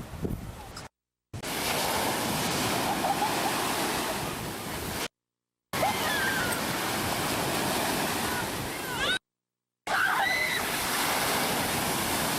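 Ocean surf breaking on a beach, a steady rush of wave noise, cut into three stretches by brief total silences. Faint voices call out over it now and then.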